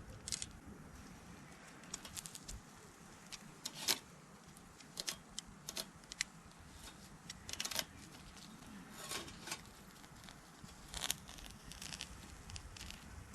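Irregular clicks, crackles and rustles, a dozen or so sharp ones scattered without a steady rhythm.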